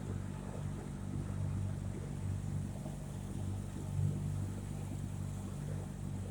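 Small boat's motor running at a steady pitch while the boat pushes through ice, with a few short knocks, the loudest about four seconds in.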